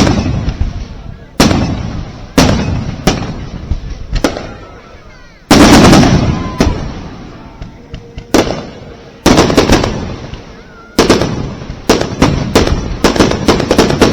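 Aerial fireworks bursting: a string of sharp bangs, each trailing off, with a louder, denser burst about halfway through and a quick run of several bangs a second near the end.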